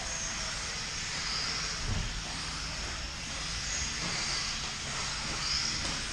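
A field of 1/10-scale electric 2WD modified buggies running on the track at the start of a race, a steady whir of motors and tyres with a high whine that rises and falls.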